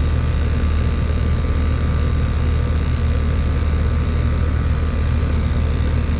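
Steady drone of a running machine: a strong low hum with an even hiss over it, unchanging throughout.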